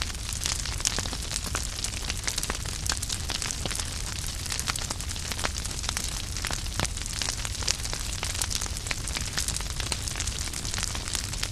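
Wood fire burning in a fireplace: firewood crackling with many quick, irregular pops and snaps over a steady low rumble of the flames.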